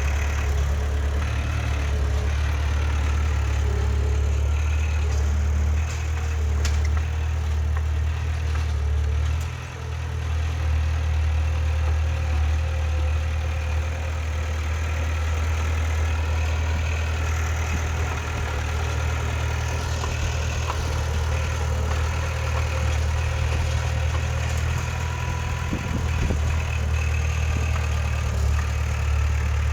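Heavy diesel engine of earthmoving machinery running steadily with a deep, low drone, dipping briefly about ten seconds in.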